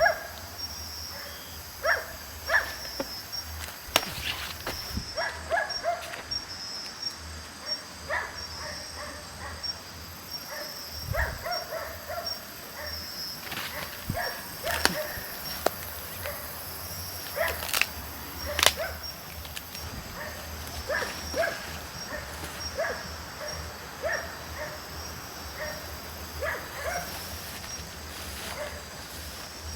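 Outdoor animal ambience: a steady, rapidly pulsing insect chirp carries throughout, while short animal calls repeat about once a second. Occasional sharp clicks cut through.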